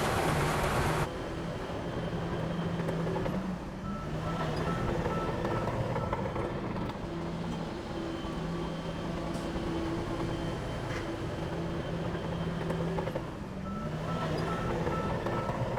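Heavy diesel machine engine running, with a reversing alarm beeping in two short spells, one about four seconds in and one near the end. A loud rushing noise cuts off about a second in.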